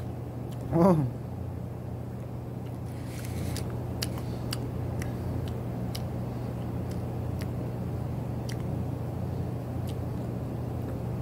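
Someone chewing a soft, spongy jelly gummy candy, with faint scattered clicks, over a steady low hum. A short voiced grunt comes about a second in.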